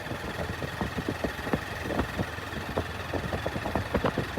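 Motorcycle engine running as the bike is ridden, with frequent irregular clicks and knocks over the engine sound.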